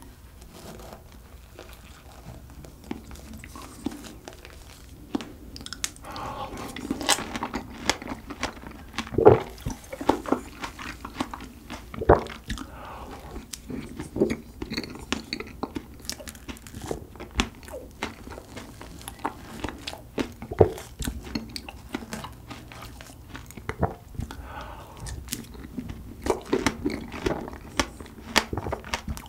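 Close-miked biting and chewing of large fresh strawberries dipped in whipped cream: irregular wet crunches and mouth sounds, with a few louder bites.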